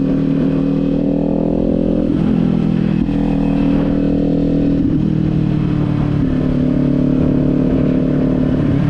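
Kawasaki Z400's parallel-twin engine running at steady cruising revs, its note shifting slightly about two seconds in and again around five seconds in, over a rough low rumble of wind on the microphone.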